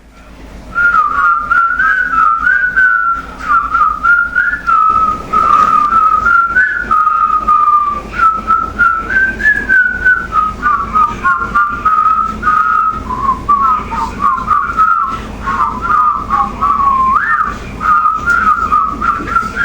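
A person whistling a wandering tune, one note line moving up and down with no break, over a low steady hum that gets louder about five seconds in.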